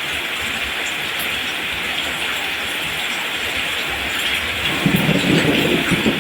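Steady rain falling. About five seconds in, a low, uneven thunder rumble rolls in over it and becomes the loudest sound.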